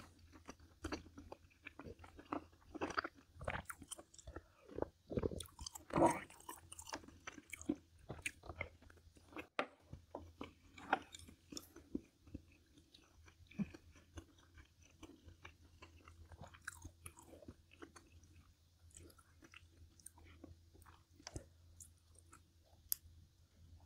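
A person chewing and biting food close to the microphone: irregular short smacks and clicks, busiest over the first dozen seconds and sparser after.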